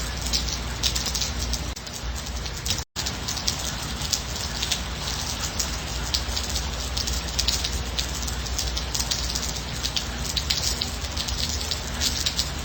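Steady light rain: many separate drops hitting over an even hiss. The sound cuts out completely for a split second about three seconds in.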